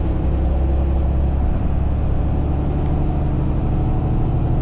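Semi truck's diesel engine running steadily while driving, heard from inside the cab as a low drone with road noise, its note shifting slightly about halfway through.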